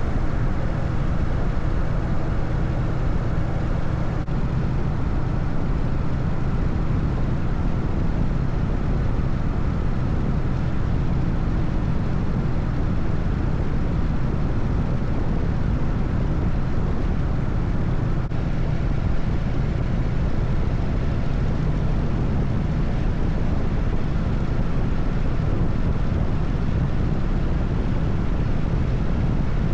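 Harley-Davidson FXSTS Springer Softail's Evolution V-twin running steadily at cruising speed on a highway ride, under a constant rush of wind and road noise.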